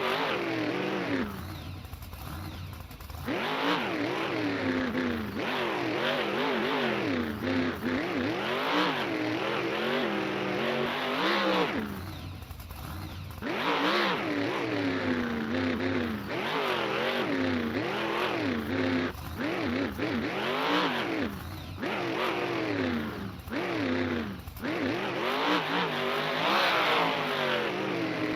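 Monster truck engine revving hard again and again, its pitch rising and falling every second or two, with brief lulls about two seconds and about twelve seconds in.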